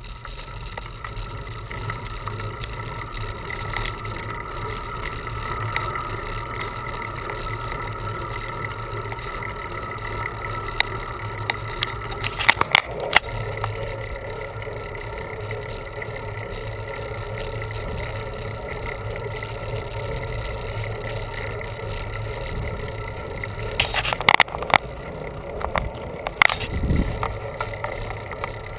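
Bicycle ride noise: steady rumble of tyres and wind with a faint steady hum. Brief bursts of rattling clicks come about halfway through and again twice near the end.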